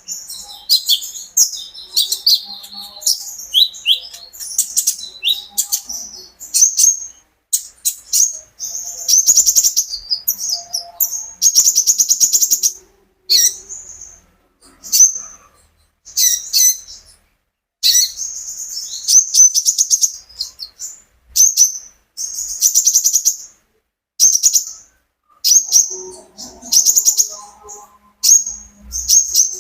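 Konin songbird singing vigorously in quick, high, chattering trills and chirps, in short phrases broken by brief pauses.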